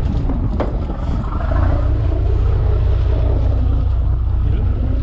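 Fishing boat's engine running as a steady low rumble that grows louder about a second and a half in, with wind on the microphone.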